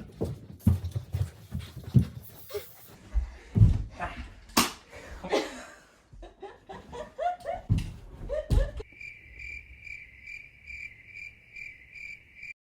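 Knocks and clatter with short bursts of laughter, then a high tone pulsing about two and a half times a second that cuts off suddenly near the end.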